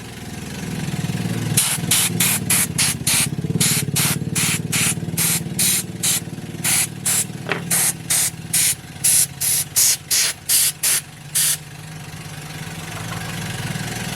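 Rapid short bursts of compressed-air spraying, about two or three a second, over a steady low machine hum. The bursts stop a couple of seconds before the end while the hum goes on.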